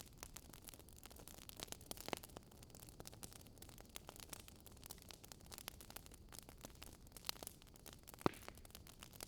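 Wood fire crackling in a fireplace: a faint, irregular patter of small clicks, with a louder pop about two seconds in and another near the end.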